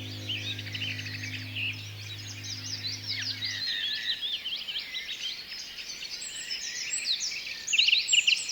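A dense chorus of small birds chirping and twittering, many quick overlapping calls, growing louder near the end. A low steady tone hums underneath and stops about four seconds in.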